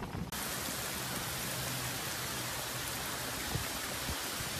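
Heavy rain falling steadily on a wet street and lawns, a tropical-storm downpour, as an even hiss. It cuts in sharply just after the start, replacing gusty wind.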